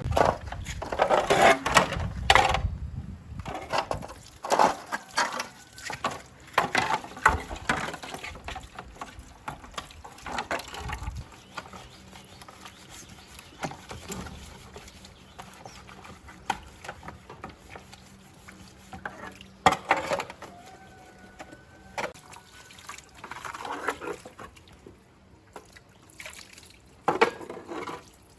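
Liquid splashing and pouring in irregular bursts, mixed with sharp clicks and knocks of things being handled.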